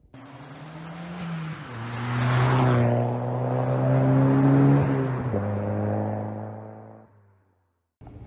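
A car engine running, its pitch stepping down twice, growing louder and then fading out about a second before the end.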